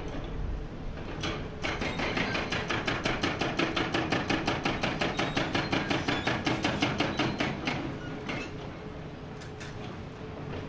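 Hydraulic rock breaker on a Komatsu PC490 excavator hammering rock in a fast, even string of blows over the excavator's running engine. The hammering starts about a second and a half in and stops about eight seconds in, leaving the engine and a few scattered knocks.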